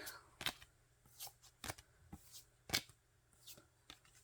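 Photocards and their packaging being handled by hand: faint, irregular light clicks and rustles, the sharpest a little under three seconds in.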